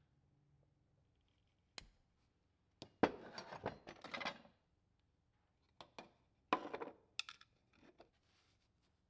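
Small metal parts of a 1949 Coleman 242C lantern's fuel valve clicking and clinking as they are handled and taken apart by hand. There are a few single clicks, with bursts of scraping and clinking about three seconds in and again a little before seven seconds.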